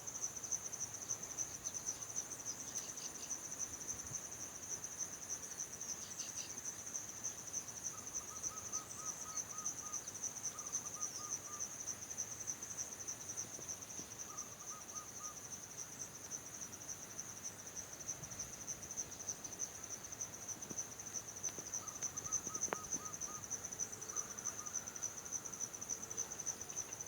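Crickets trilling steadily in a high, finely pulsing chirr, with a bird calling now and then in short runs of quick repeated lower notes.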